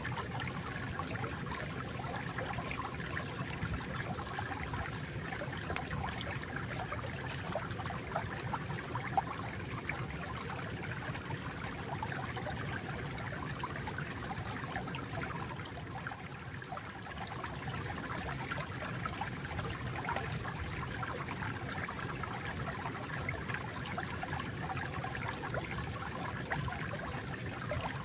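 Water flowing and trickling steadily, a continuous gurgling stream with a slight dip in level about halfway through.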